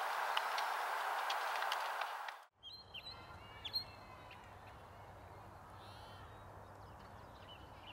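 Birds chirping in short calls, a burst about three seconds in and more near the end, over a faint low hum. Before that, a steady noisy outdoor background with a few clicks cuts off abruptly about two and a half seconds in.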